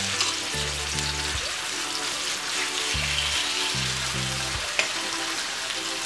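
Chicken breasts sizzling in a hot frying pan, a steady hiss, over background music with low sustained notes. A single sharp click about three-quarters of the way through.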